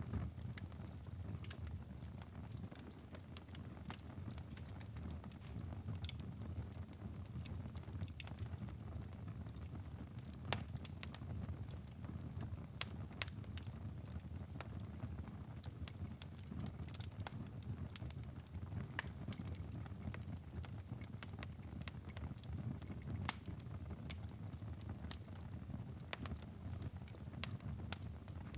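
Fire crackling in a fireplace: frequent sharp, irregular pops and snaps over a low, steady rumble of flames.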